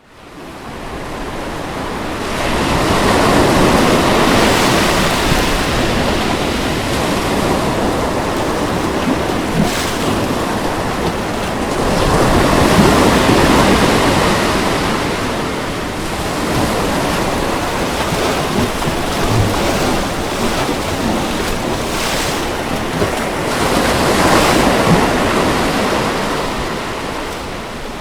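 Ocean waves breaking on a beach, swelling and ebbing about every ten seconds. The surf fades in from silence at the very start.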